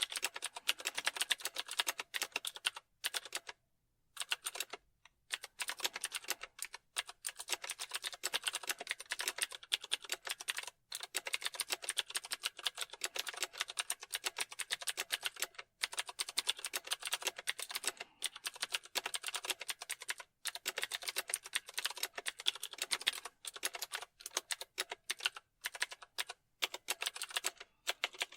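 Computer keyboard being typed on steadily: rapid, continuous key clicks with brief pauses between runs.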